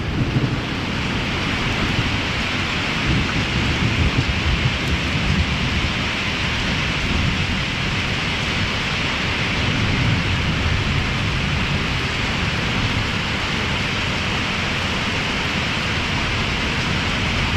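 Heavy rain pouring steadily in a thunderstorm, with a low rumble of thunder underneath that swells a little now and then.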